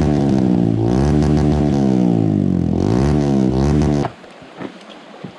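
Dirt bike engine revving up and down several times, its pitch rising and falling, then cutting off abruptly about four seconds in.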